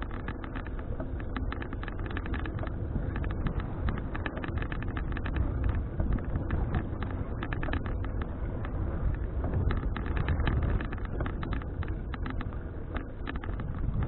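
Wind buffeting the microphone of a bike-mounted action camera while riding, with a steady low rumble and dense, irregular clicking and rattling throughout.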